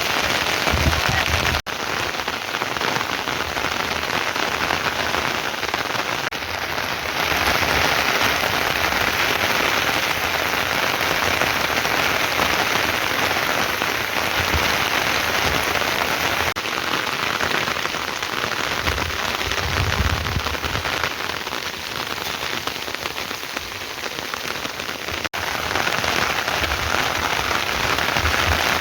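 Heavy rain pouring down steadily, a dense hiss of drops on surfaces, with a few low rumbles and two abrupt momentary breaks.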